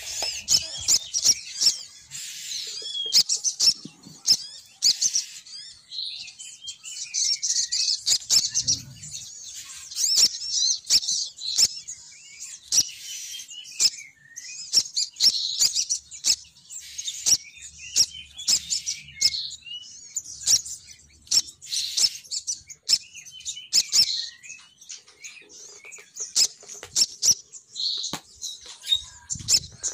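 Female sogon bird's lure call: dense, high-pitched chirping and twittering with many sharp ticks, going on without a break.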